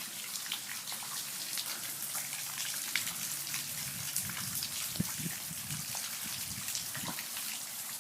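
Rain falling steadily, with many separate drops ticking close by and a few heavier drips landing now and then.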